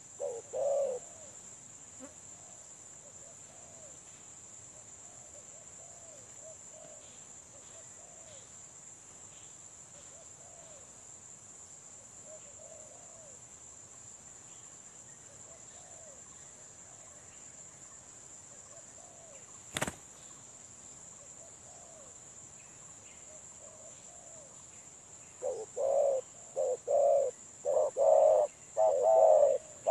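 Spotted dove cooing: faint, scattered coos for most of the time, then a loud run of quick repeated coos in the last few seconds. A steady high hiss runs underneath, and there is one sharp click about twenty seconds in.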